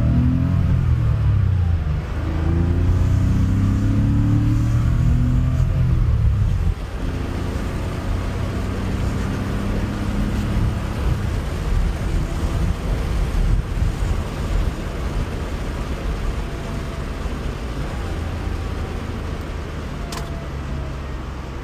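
Air-cooled flat-six engine of a 1989 Porsche 911 Carrera heard from inside the cabin while driving. The engine note falls, then rises through a gear for about four seconds. It drops off sharply about seven seconds in, then runs lower and steadier with road noise, slowly fading. There is a light click near the end.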